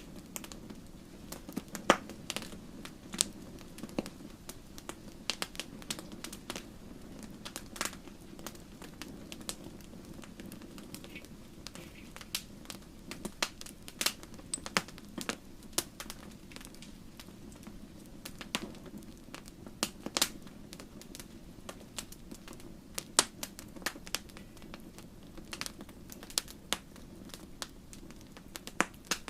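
Wood fire crackling: irregular sharp pops and snaps, a few each second, over a steady low rumble.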